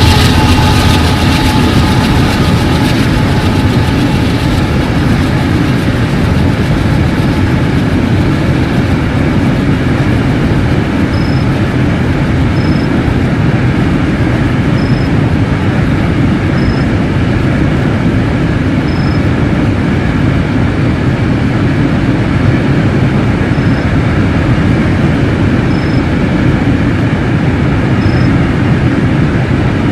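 A CSX manifest freight train's cars rolling past in a steady loud rumble of wheels on rail. The last of a held horn chord fades out in the first couple of seconds, and faint short high squeaks recur every couple of seconds later on.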